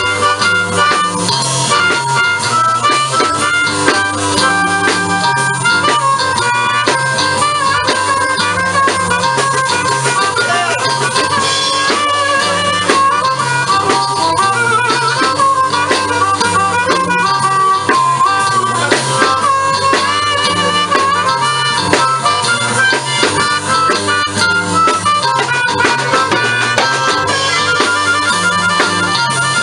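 Live blues band playing an instrumental break: a harmonica solo with bending notes over a repeating bass line and drums keeping a steady beat.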